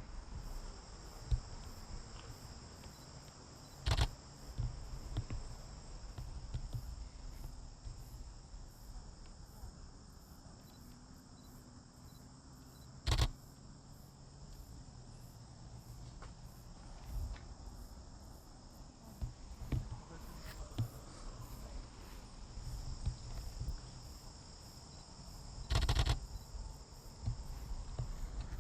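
Outdoor insect chorus, a steady high-pitched chirring, over a low rumble of wind and handling on the microphone. Three sharp knocks stand out, about four, thirteen and twenty-six seconds in.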